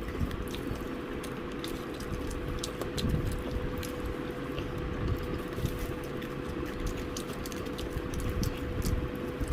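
Close-miked eating sounds of fried chicken being chewed: small crackly clicks and soft wet mouth noises, with a faint steady hum underneath.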